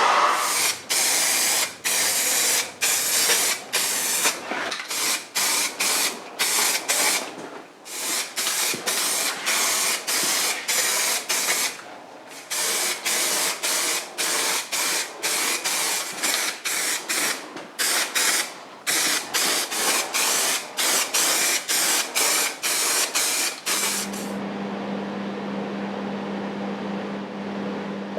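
Spray hissing in many short bursts, about two a second with brief pauses between runs, as parts are sprayed during the casing refinishing. About 24 seconds in the spraying stops and a steady low hum is left.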